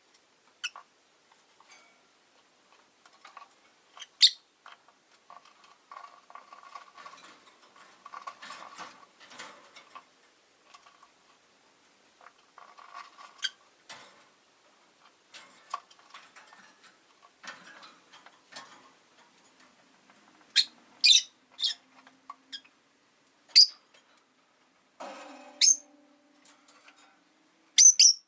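Rosy-faced lovebirds giving short, sharp, high chirps, several loud ones clustered in the last third, with soft scratching and clicking between the calls.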